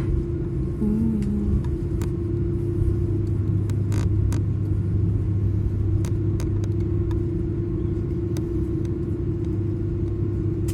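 Airliner cabin noise on the ground before takeoff: a steady engine hum over a low rumble that grows heavier about a second and a half in, with scattered clicks and rattles of the cabin fittings.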